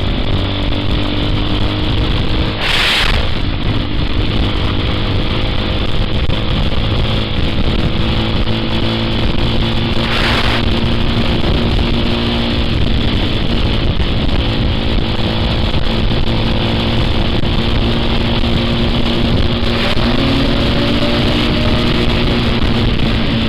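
Vehicle engine running at a steady cruise while riding, with wind rushing over the microphone and brief gusts of hiss about three seconds in and again about ten seconds in.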